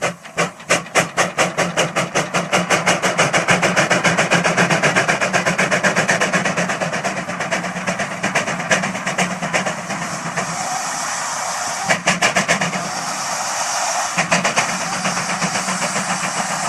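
Steam traction engine's exhaust chuffing under load on a hill climb, about five beats a second, quickening and blending into a steady rush of steam, with a few louder single beats near the end.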